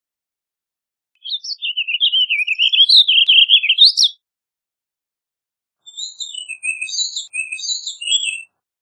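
Warbling vireo singing: a rapid, rambling warble of quickly rising and falling notes lasting about three seconds, then after a short pause a softer phrase of separate short notes.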